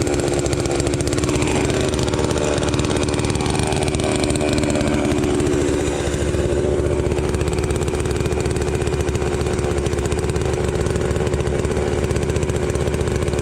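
ASV compact track loader's diesel engine running steadily at working speed. A faint whine falls and then rises in pitch during the first few seconds.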